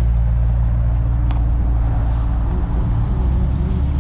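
Car engines at low speed: a steady low exhaust drone as a white McLaren supercar rolls away, the drone changing about two and a half seconds in as a black Subaru WRX pulls up.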